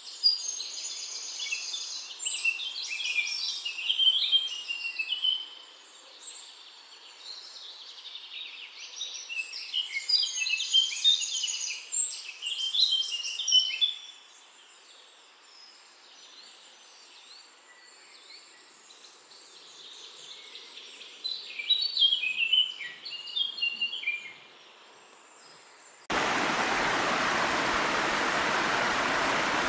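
Songbirds singing bouts of quick, high chirping phrases, three times with quieter gaps between. About 26 seconds in, the birdsong cuts off abruptly and the steady, louder rush of a small mountain waterfall takes over.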